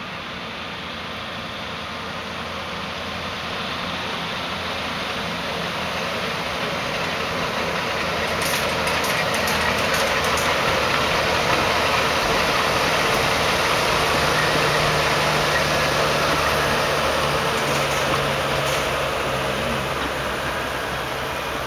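Trains running side by side, a JNR Class EF63 electric locomotive and the small Abt-kun park train: a steady rumble and rolling noise that builds over the first several seconds, holds, and eases off near the end, with a few brief clicks.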